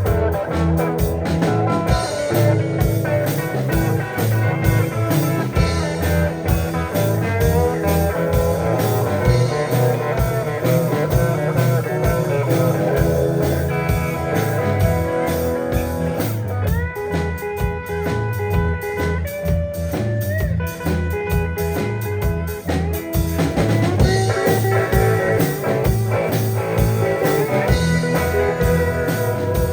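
Instrumental blues-rock band music: electric guitar playing sustained lead lines with pitch bends over bass and drums keeping a steady beat.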